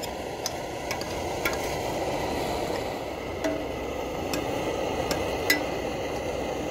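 Onions frying in hot oil in a pot on a small stove: a steady low rushing hiss with scattered sharp clicks and pops.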